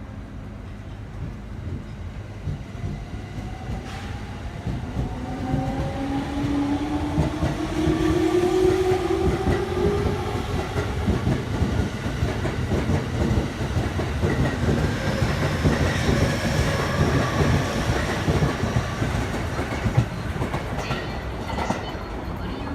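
An E231-series electric commuter train pulling away from a station. Its inverter and traction motor whine climbs steadily in pitch as it accelerates, while the rumble and clatter of the wheels over the rail joints grow louder.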